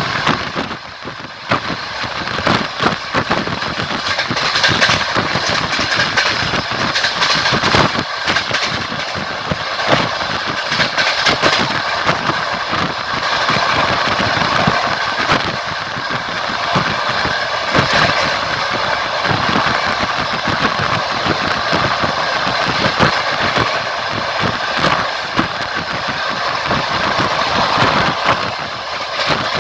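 Passenger train running along the track: a steady rumble and rattle with repeated knocks of the wheels clattering over the rails.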